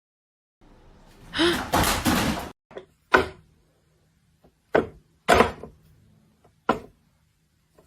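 A noisy scuffle, then about five sharp bangs and thumps spaced roughly a second apart.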